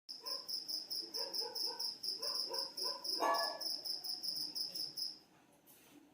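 An insect chirping in rapid, regular high pulses, about five a second, with fainter lower calls beneath; it cuts off suddenly about five seconds in.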